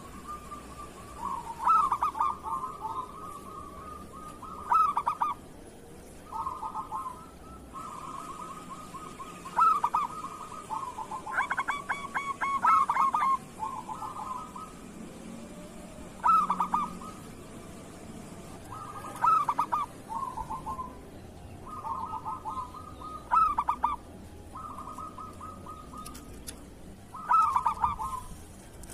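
Zebra dove (perkutut) cooing: short rolling, trilled coo phrases at much the same pitch, repeating every few seconds, with softer trills in between.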